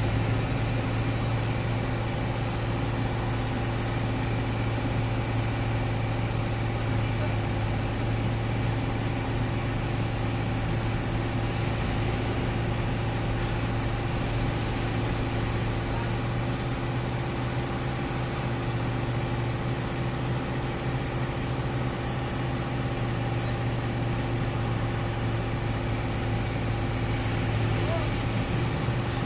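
Heavy diesel engine running steadily at a constant speed, a low even hum with no revving or changes.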